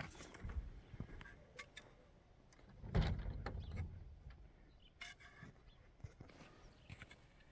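Scattered knocks and clatter of something being handled, with one heavier thump about three seconds in.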